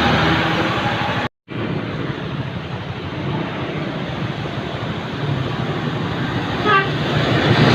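MAN TGS 6x6 heavy truck on the move: a steady diesel engine drone mixed with road and wind noise. The sound cuts out completely for a moment just over a second in, then resumes, and a brief chirping rises near the end.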